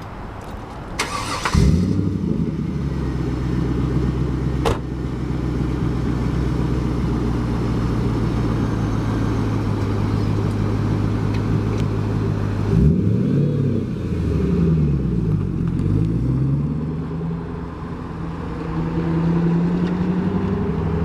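2000 Chevrolet Camaro SS's 5.7-litre LS1 V8 cranking briefly and starting about a second and a half in, then idling steadily. Past the middle it is revved in a few quick throttle blips before settling back to idle.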